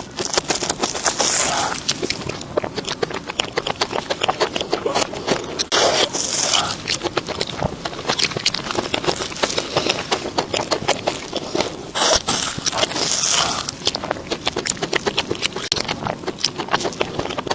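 Crunching and chewing of crispy food close to the microphone: dense crackles with louder crunchy bites every few seconds.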